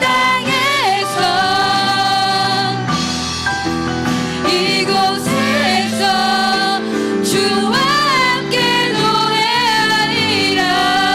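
A Christian worship band playing a slow song, with singing that holds long notes with vibrato over the band's accompaniment.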